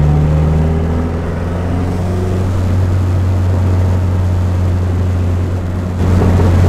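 Turbocharged four-cylinder engine of a Dodge Neon SRT-4 heard from inside the cabin, humming steadily at a cruise across the bridge, growing louder about six seconds in.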